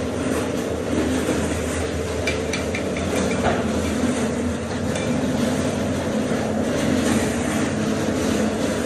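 A machine running steadily with a continuous low rumble, and a few light knocks about two to three and a half seconds in.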